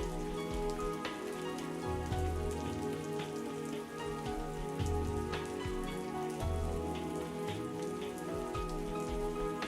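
Steady rain falling, with many individual drops striking a surface, over soft music of slow, sustained notes.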